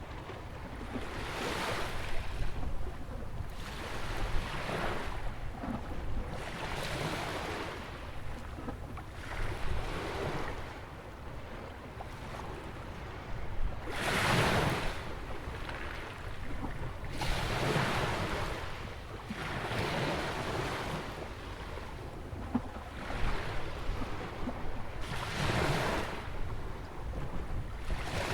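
Ocean waves breaking and washing in at a jetty on a sandy Atlantic beach, coming in repeated surges every two to three seconds, the largest about halfway through. Wind rumbles on the microphone underneath.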